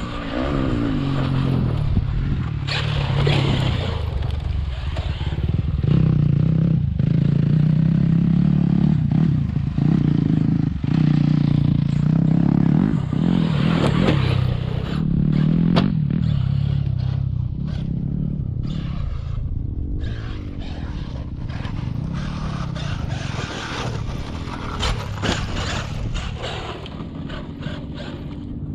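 Traxxas brushless RC monster truck driven hard over rough ground. The motor whines and revs up and down over and over, with tyres scrabbling and scraping and sharp knocks from bumps and landings.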